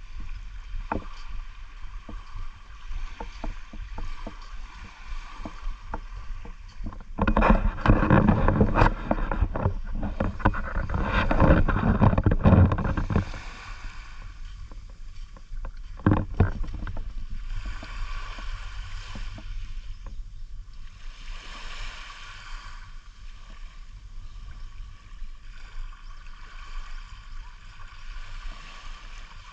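Seaside ambience: a steady wash of waves with small scattered clicks. Wind buffets the microphone in a loud gusty stretch from about 7 to 13 seconds and again briefly near 16 seconds.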